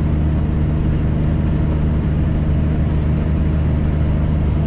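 Heavy diesel truck engine running steadily at cruise, heard from inside the cab, with a low even drone and a steady hiss of road and wind noise.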